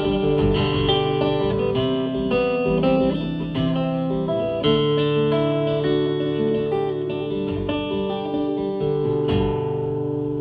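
Guitar playing the closing instrumental bars of a country song, plucked notes over held chords, with no singing.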